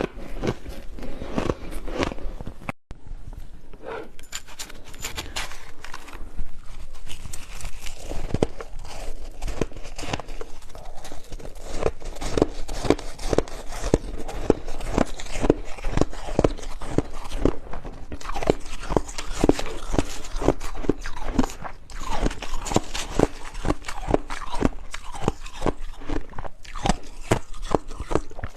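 Ice being bitten and chewed close to the microphone: rapid, irregular crunching with several crunches a second, broken by a short gap about three seconds in.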